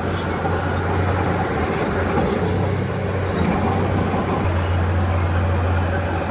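Diesel engine of a Komatsu D31P bulldozer running steadily at work, a continuous low drone.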